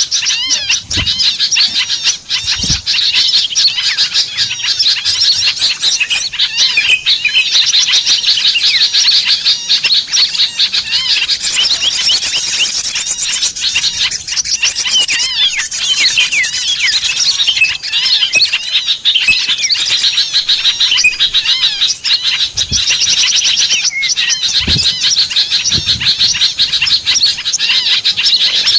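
Many small songbirds chirping and twittering rapidly over one another in a dense, unbroken chorus, the kind of call played as a lure to bring in small birds.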